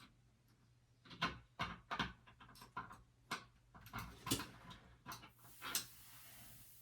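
Irregular clicks, taps and knocks of small parts and tools being handled while shower fittings are put together, with a short hiss near the end.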